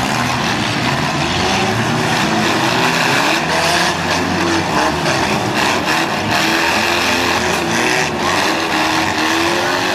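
Several demolition derby cars' engines running and revving at once, their pitches rising and falling over one another. Between about three and a half and six seconds in comes a run of sharp knocks.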